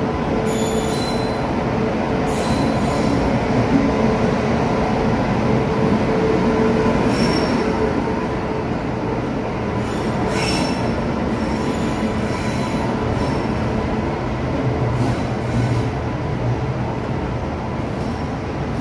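Passenger train hauled by an electric locomotive rolling slowly along the platform: a steady rumble of wheels on rail, with short high-pitched wheel and brake squeals every few seconds.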